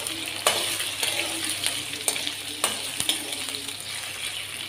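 Diced raw potatoes sizzling in hot ghee in a kadhai while a metal spatula stirs them, with a steady hiss and a few sharp scrapes and knocks of the spatula against the pan.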